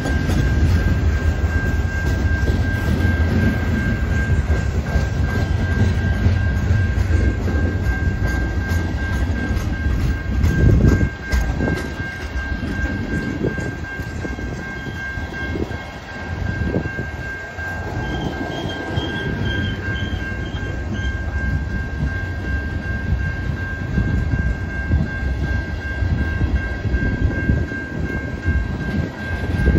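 Heavily loaded freight cars, covered hoppers and tank cars, rolling slowly by at walking pace: steel wheels rumbling on the rails, with a few heavier clunks. A steady high-pitched tone rings throughout.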